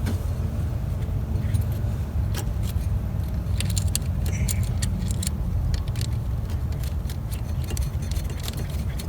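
Light metallic clicks and clinks of small hardware as a nut is fitted onto the new starter's cable terminal stud, over a steady low rumble.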